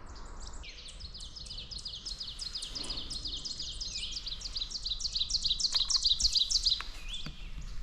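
A dense chorus of woodland songbirds: many overlapping high chirps, trills and quickly repeated notes, growing louder through the middle and loudest near the end.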